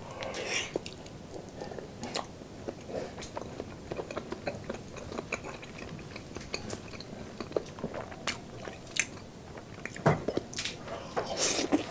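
A person biting into and chewing soft braised pork knuckle skin, with many short, sharp mouth clicks throughout and a few louder bites near the start, about ten seconds in, and near the end.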